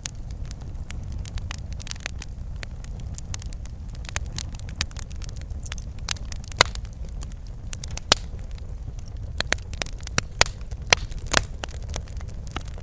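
Wood fire crackling, with a steady low rumble under scattered sharp pops, a few louder snaps in the second half.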